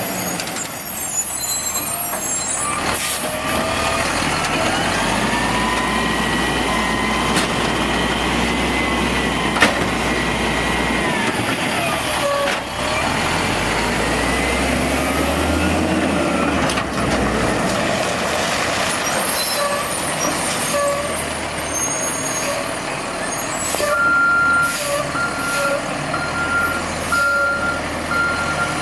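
Volvo Xpeditor garbage truck with an Amrep automated side loader working: the engine revs up and down, its pitch rising and falling, with a sharp air-brake hiss about ten seconds in. Near the end the reversing alarm starts beeping, about once a second.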